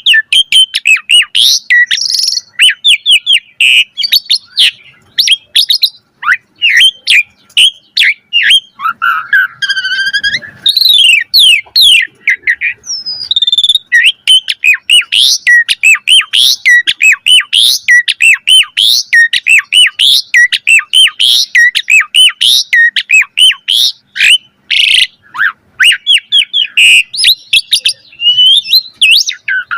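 Asian pied starling (jalak suren) singing without pause: a rapid, varied run of whistles, chirps and sweeping notes, with a lower warbled phrase about ten seconds in.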